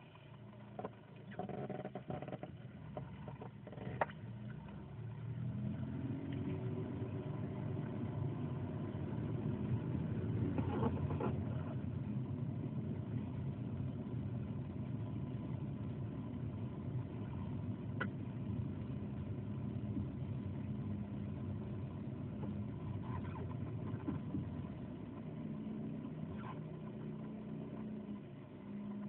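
The unexplained sound inside the cabin of a stopped Nissan Primera P10 2.0: a steady low-pitched sound of several tones. It grows louder about five seconds in and eases back near the end, with a few faint clicks. The owner says it comes only when the car is stopped and cannot find its cause under the hood.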